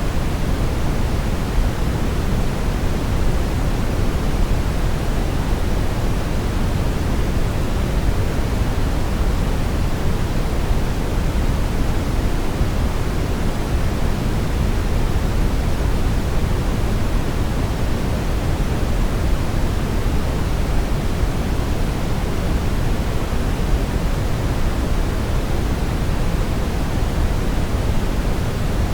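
Synthetic brown noise: a steady, unchanging rushing hiss, heaviest in the low end and falling off toward the treble.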